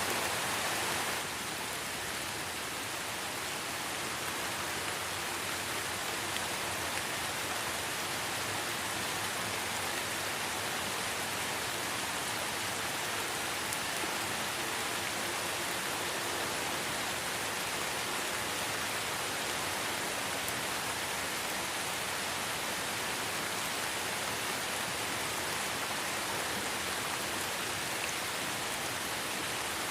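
Light rain falling steadily in a forest, an even hiss of drops on leaves and ground that dips a little in level about a second in.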